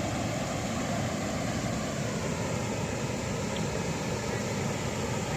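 Steady rush of a waterfall: a dense, even roar of falling water with no breaks.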